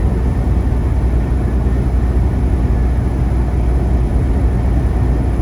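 Steady low drone inside a Freightliner Cascadia semi truck's cab while driving on the highway: engine and road noise.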